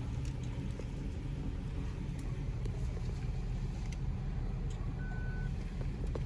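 Car engine idling steadily, heard from inside the car, with a single short electronic beep about five seconds in.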